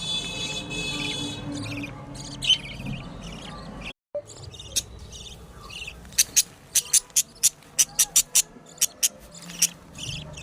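Budgerigars chirping and chattering in a run of short, high calls. About four seconds in there is a sudden cut, then a quick series of sharp, loud chirps or clicks.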